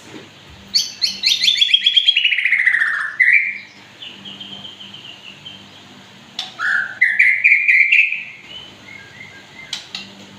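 Murai songbird singing: a loud phrase of rapid whistled notes sliding down in pitch, a short call, softer warbling, then a second loud phrase rising in pitch about two-thirds of the way through.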